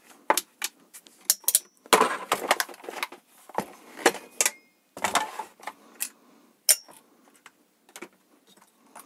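Metal tools and small chainsaw parts clinking and scraping during disassembly of the cylinder: a quick run of sharp clicks and clinks, two of them ringing briefly, with short rasping scrapes in between.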